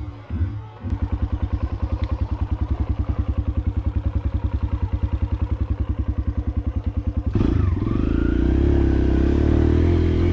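Dirt bike engine idling with an even, rapid putt of about a dozen beats a second. Near the end the engine revs up into a louder, steady drone as the bike pulls away.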